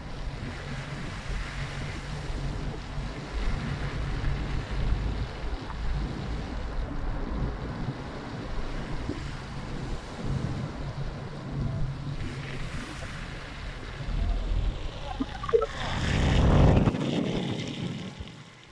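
Heavy rainstorm ambience with wind buffeting the microphone in uneven low rumbles, swelling to a louder gust near the end.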